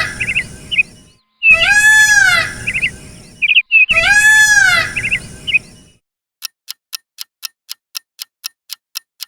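Peacock calling: loud, wailing calls that rise and then fall in pitch, each trailed by a few short notes, repeated about every two and a half seconds and ending about six seconds in. Then a countdown timer ticking about four times a second.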